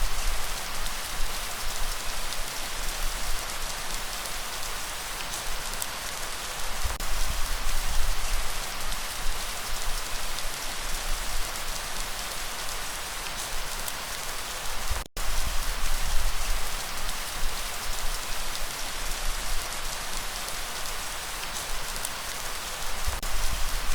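Steady rain falling, an even hiss of many drops, with an uneven low rumble underneath. The sound cuts out for an instant a little past halfway, then carries on.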